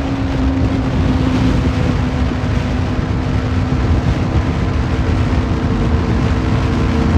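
Superbike engine running at a steady cruising speed, its note holding level, under heavy wind buffeting on the microphone.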